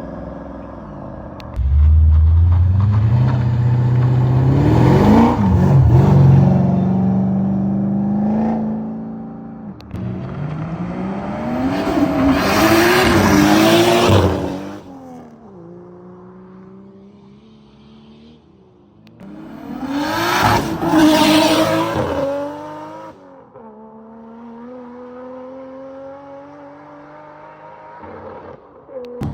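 Cars leaving one after another, engines revving and accelerating past. There is a loud run-up starting about two seconds in and two more loud passes around the middle and about two-thirds through, with quieter engines running between them.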